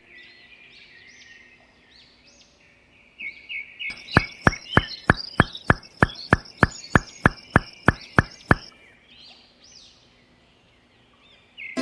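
Birds chirping faintly, and from about four seconds in a run of about sixteen sharp, regular knocks, roughly three a second, stopping after about four and a half seconds.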